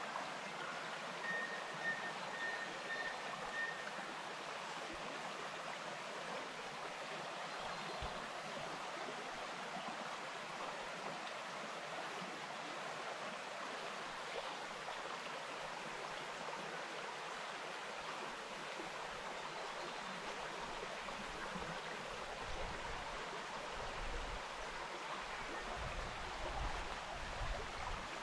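Wainuitewhara bush stream flowing, a steady, even rush of water, with a few low rumbles near the end.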